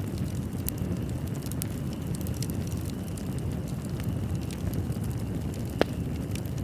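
Fireplace crackling: a steady low rumble of burning logs with frequent small crackles and one sharper, louder pop near the end.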